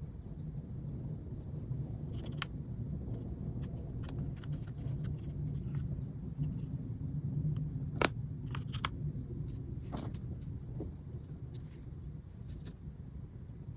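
A low, steady rumble that swells a little mid-way and then eases, with scattered small clicks and taps of small parts and tools being handled on a work surface; the sharpest click comes about eight seconds in.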